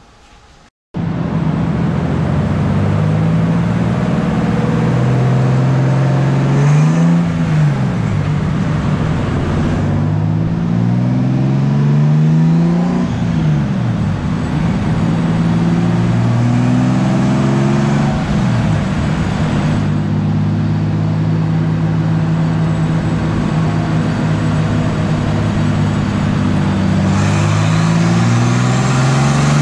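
Fully built BMW S50 straight-six in an E36 running on a chassis dyno: it cuts in about a second in, is revved up and drops back twice, then holds a steady speed and begins to climb again near the end.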